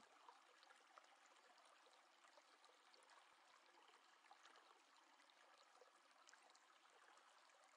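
Near silence: faint room tone with a few tiny ticks.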